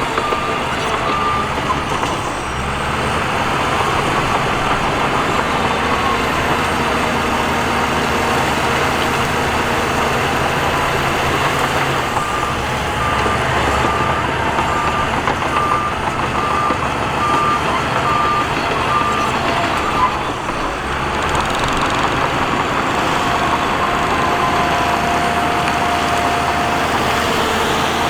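Diesel heavy machinery working, engines running steadily, with a reversing alarm beeping about twice a second at the start and again for several seconds midway through.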